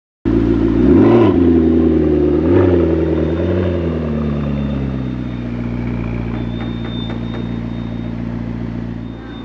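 McLaren 12C's twin-turbo V8 through its sports exhaust, blipped three times in quick succession (the first the loudest, the last the smallest) and then settling into a steady idle.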